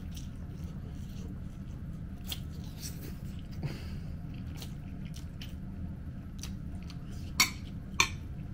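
A person chewing and eating, with soft scattered mouth clicks over a steady low hum, and two sharper clicks close together near the end.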